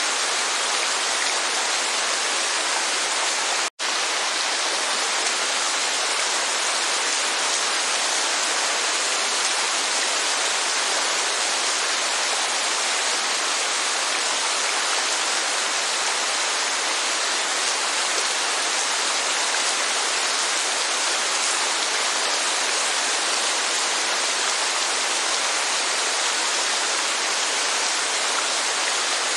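Steady rain mixed with the rushing of a waterfall, an even hiss without distinct drops. It cuts out for an instant about four seconds in.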